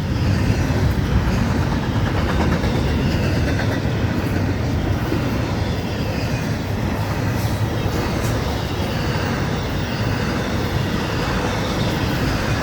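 Florida East Coast Railway freight train's cars rolling past steadily, with a few faint clicks after the middle.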